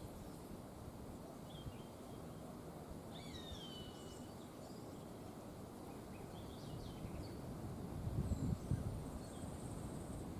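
Wind in forest trees, a low rushing that swells about eight seconds in, with scattered bird calls: a falling whistle about three seconds in, short chirps around seven seconds, and a thin high trill near the end.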